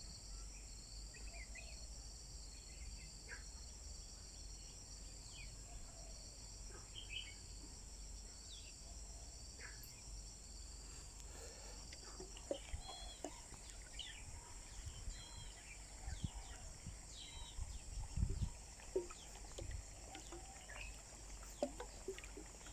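Outdoor insect chorus: a steady high-pitched trilling from crickets or similar insects, with one pulsing layer that fades out about halfway through. Birds chirp briefly here and there over a low rumble.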